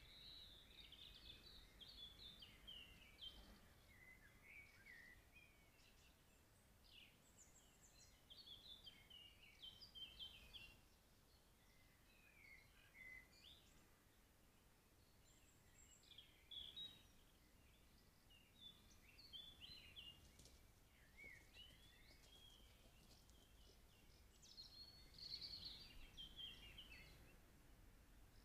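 Faint songbird song: short varied phrases of high chirps and warbles, coming in bouts every few seconds with pauses between, the loudest bout near the end.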